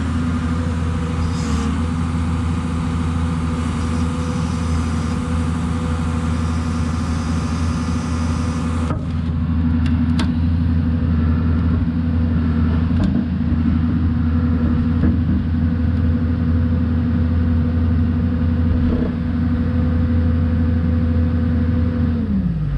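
Engine running steadily at a constant speed, its pitch sliding down near the end as it slows.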